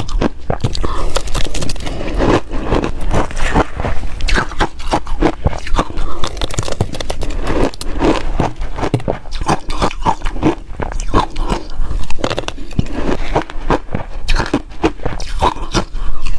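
A person chewing ice, crunching it in the mouth with dense, irregular cracks close to the microphone.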